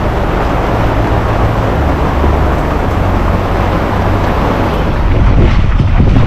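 Steady rushing noise aboard a sailing yacht under way: wind buffeting the microphone over the sound of the boat moving through the water.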